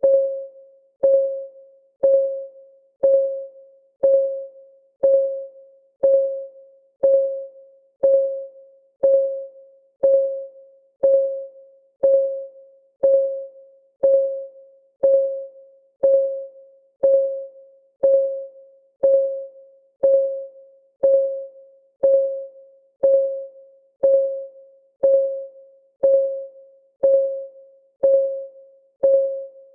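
Countdown timer's clock-ticking sound effect: one short, pitched tick every second, each ringing briefly and fading, in a perfectly steady rhythm.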